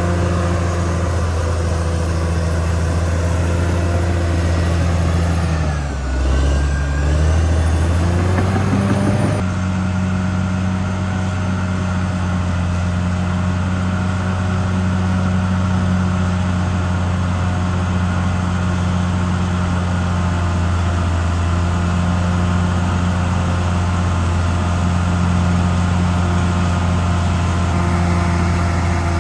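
Caterpillar D6R XL bulldozer's diesel engine running steadily. Its pitch dips about six seconds in and climbs back over the next few seconds.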